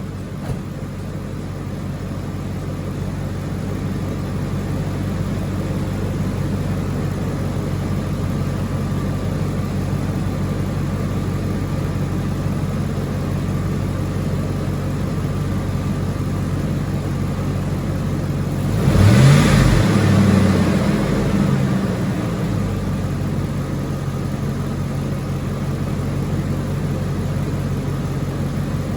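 Ford F-150 engine idling steadily on freshly fitted coil packs, blipped once about two-thirds of the way through, the pitch rising and falling back to idle. It runs evenly, the misfire cured: the check engine light goes off.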